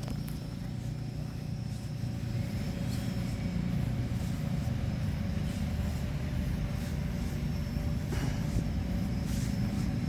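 Steady low mechanical rumble with a faint constant hum above it.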